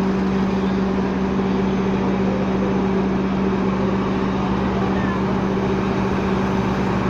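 Heavy truck engine running steadily, a constant low drone with no revving.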